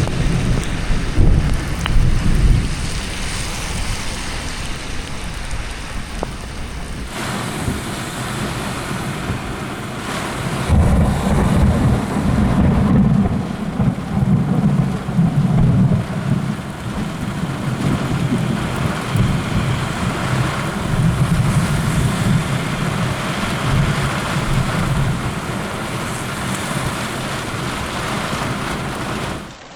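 Steady heavy rain with rolling thunder: a deep rumble in the first couple of seconds, then a longer rumble that swells from about ten seconds in and rolls on for some twelve seconds before fading.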